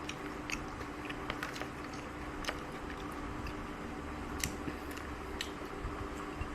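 A person chewing a mouthful of food close to the microphone, with scattered soft wet mouth clicks and smacks.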